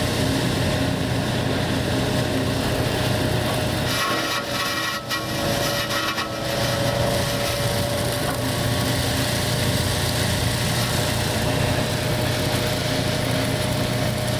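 Ship's engine running steadily, a low hum with a steady higher tone over rushing noise, dipping briefly about four seconds in before settling back.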